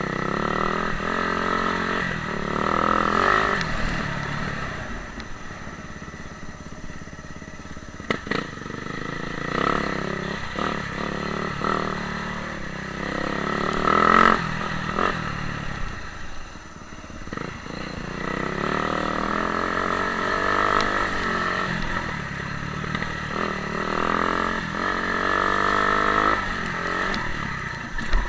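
Motocross bike engine revving up and down repeatedly under changing throttle while riding, with a few sharp knocks.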